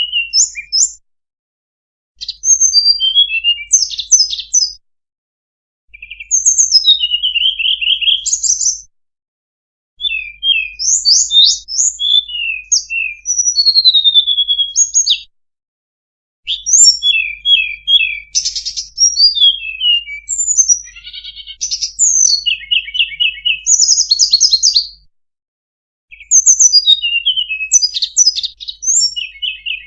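Recorded song of a tledekan (blue flycatcher), played as a bird-trapping lure call. It comes as rapid, high twittering phrases with quick trills and slurred whistles, in bursts of a few seconds. The bursts are broken by sudden silent gaps of about a second where the recording is spliced.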